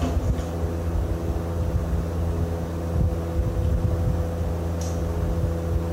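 An engine running steadily at idle, a constant hum with several held tones, with a brief light clink at the start and another near the end.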